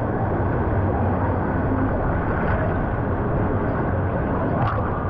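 Steady rushing, churning water close to the microphone, a constant noisy wash with no let-up.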